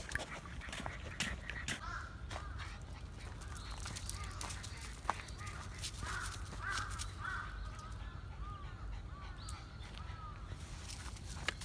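A bird calling repeatedly, a run of short arched calls through most of the stretch, with a few sharp steps or clicks early on and a steady low rumble underneath.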